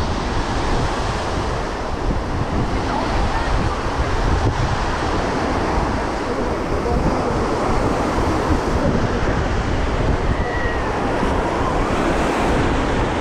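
Sea surf washing onto a beach, with wind buffeting the microphone in a steady low rumble.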